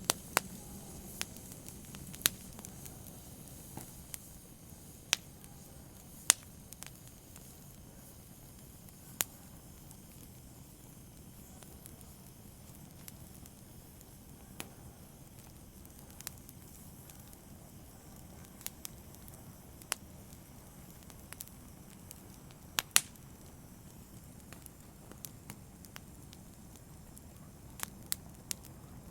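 Open fire burning: a low steady hiss with sharp, irregular crackles and pops every second or few, a few of them much louder.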